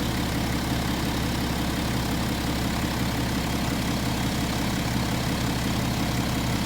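BMW N57D30 3.0-litre straight-six diesel engine running at a steady speed, with no change in revs. The owner hears a slight "tuk tuk / tap tap" tapping in it and is unsure whether it is normal for this engine or a fault.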